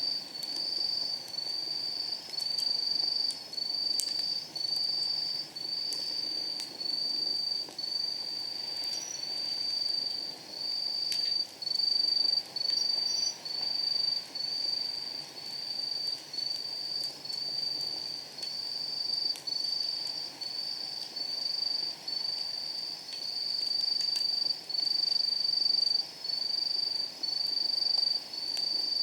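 A night insect calling in a steady, unbroken series of high trills at about one a second. Now and then a faint pop comes from the crackling wood fire in a steel fire pit.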